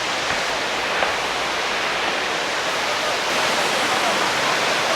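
Steady rushing of water from Dunn's River Falls, a broad cascading waterfall.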